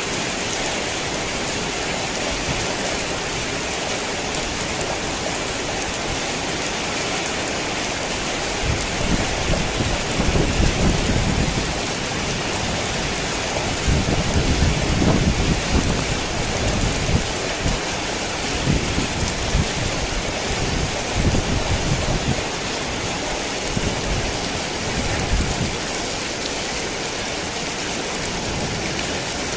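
Heavy rain falling steadily, with low rolls of thunder rumbling in about a third of the way through and coming and going through the middle, the loudest just past the halfway point.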